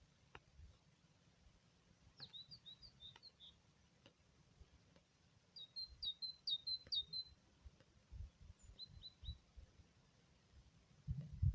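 A songbird singing three short bouts of quick, high chirps. Low rumbling bumps sit underneath and grow louder near the end.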